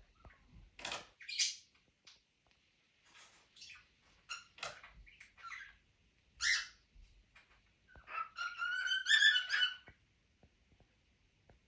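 Small pet parrots calling: a scatter of short, sharp chirps, then a louder run of pitched chirping calls near the end.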